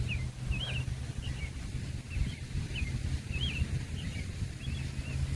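Small birds chirping: a run of short, quick, up-and-down notes repeated every half second or so, over a steady low hum and rumble.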